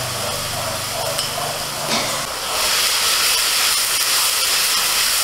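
Ginger paste sizzling in hot mustard oil with onions in a steel kadai, stirred with a metal spatula; the sizzle turns much louder about two and a half seconds in.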